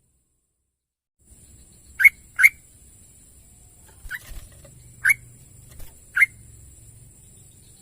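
Yellow-vented bulbul (trucukan) giving short, sharp call notes, five in about four seconds, the first two close together. A faint steady high hiss runs underneath from about a second in.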